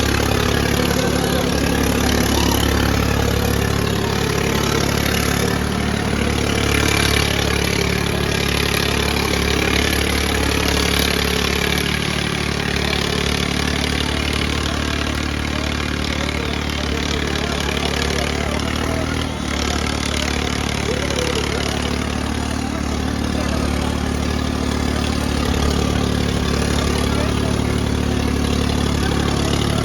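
Diesel tractor engines running steadily, with a brief dip in level about two-thirds of the way through.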